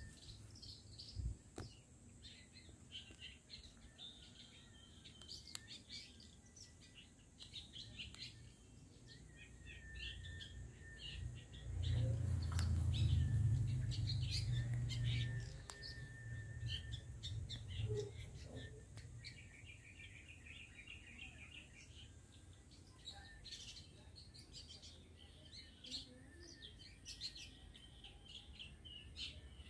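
Wild long-tailed shrikes calling: a busy run of short chirps and twittering notes throughout. A low rumble comes in for a few seconds near the middle and is the loudest sound.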